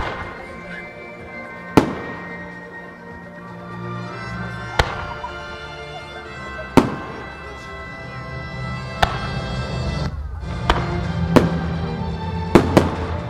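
Fireworks display set to music: about eight sharp bangs of shells bursting, unevenly spaced with two close together near the end, over music played through loudspeakers.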